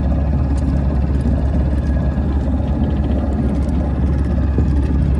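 A sailboat's auxiliary engine running steadily as the boat motors along under power, a constant low rumble.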